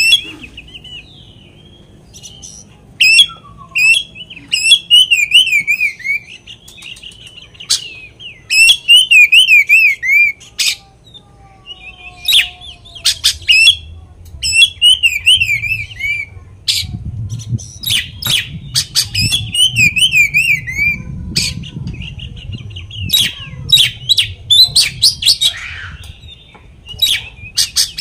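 Oriental magpie-robin (kacer) singing loudly: a varied song of repeated wavering warbled phrases mixed with sharp clicking notes and very high rapid trills, the bird's learned song material.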